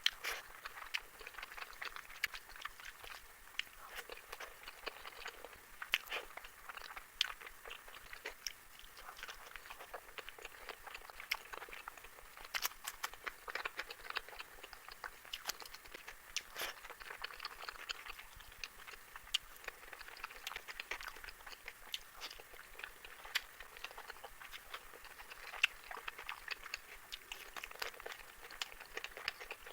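Close-miked eating sounds of someone eating spicy fish curry: steady chewing and wet mouth smacks, with irregular sharp clicks and crunches.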